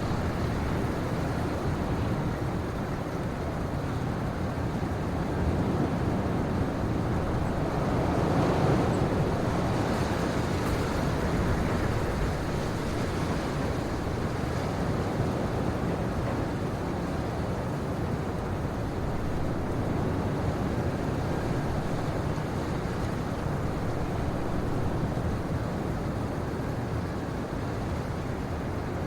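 Steady, low rushing wind in a winter pine forest, with no distinct events; it swells slightly about nine seconds in and then settles.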